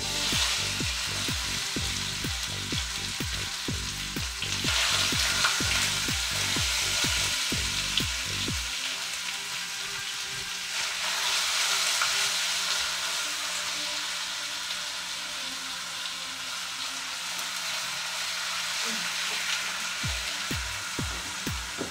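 Raw chicken pieces sizzling and frying in hot oil in a nonstick pot. The sizzle swells three times: at the start, about five seconds in and again around eleven seconds.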